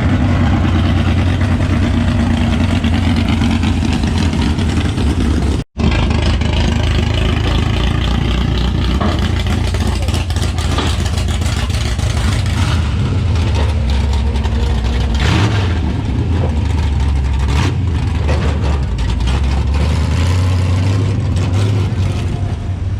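Pulling truck's big-block V8 engine run hard at high revs during a truck pull, loud and continuous. The sound cuts out for an instant about six seconds in, then carries on.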